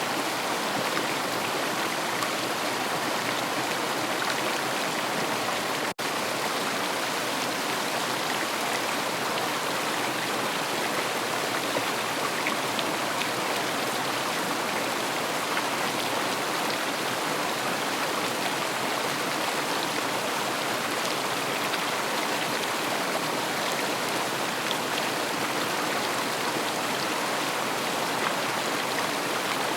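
River water flowing steadily, an even rushing with no pauses, broken only by a split-second dropout about six seconds in.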